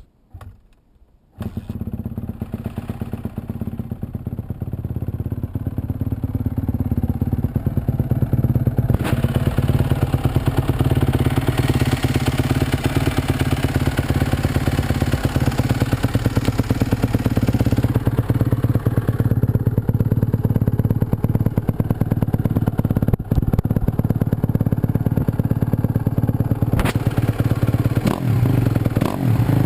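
2012 Kawasaki KX250F's four-stroke single-cylinder engine on a cold start: it catches about a second and a half in and settles into a steady fast idle that grows louder over the next several seconds. The throttle is blipped a few times near the end.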